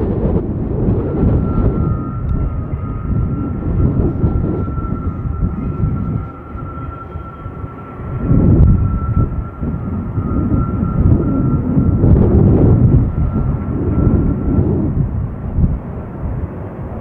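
Diesel-hauled freight train rumbling past, with a steady high-pitched whine over the rumble from about two seconds in until near the end. The rumble dips for a couple of seconds in the middle, then comes back.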